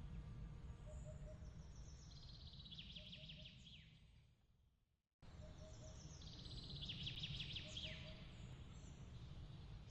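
Quiet birdsong: a quick high trill ending in a falling sweep, heard twice, over a low steady rumble. Midway the sound fades to silence and then starts again abruptly, the seam of a looped ambience recording.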